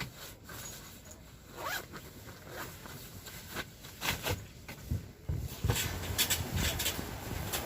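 A zipper being pulled in several short strokes, as gear is packed away. From about five seconds in there is louder rustling and handling noise.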